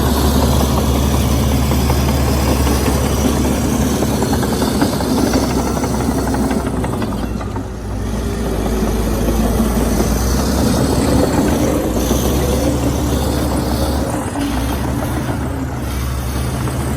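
Komatsu D61EX bulldozer's diesel engine running steadily at working revs, easing off briefly about halfway through and then picking up again.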